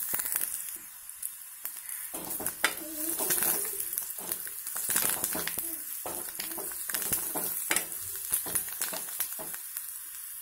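Onions and green capsicum sizzling in hot oil in an aluminium kadai while a spatula stirs them, scraping and tapping against the pan many times over a steady frying hiss.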